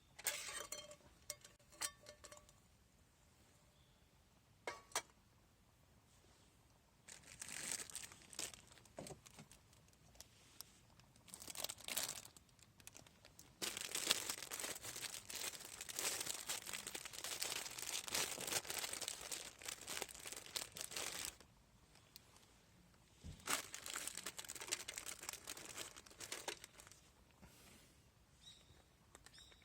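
Crinkling and rustling of something being handled, in several bouts with a few clicks at first, the longest lasting about seven seconds in the middle.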